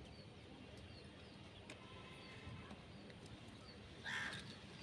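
Faint, short, high bird chirps, with one harsh, noisy parrot squawk lasting about half a second, about four seconds in.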